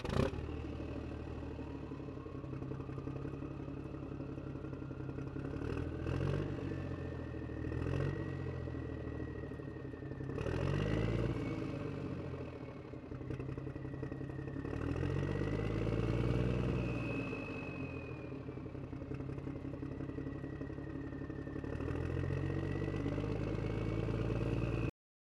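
Toy tractor engine sound, running steadily and revving up and back down several times, with a thin high whine gliding above it. It cuts off suddenly near the end.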